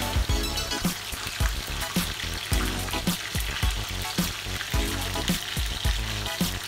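Battered chicken pieces sizzling steadily as they fry in oil in a stainless steel frying pan. Background music with a steady beat plays underneath.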